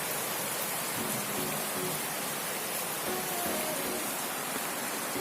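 Heavy rain falling steadily, a constant even hiss, with faint background music underneath.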